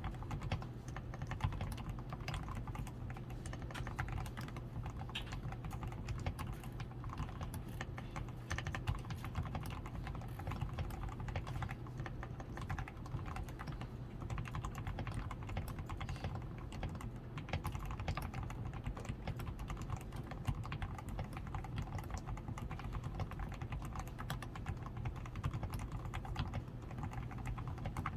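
Continuous typing on a DAREU A87 Pro mechanical keyboard: dense, unbroken key clicks. The keyboard is fully lubed with Krytox 105, with lubed stabilizers, a tape-modded PCB, foam-reinforced switches and XDA keycaps. A steady low hum sits underneath.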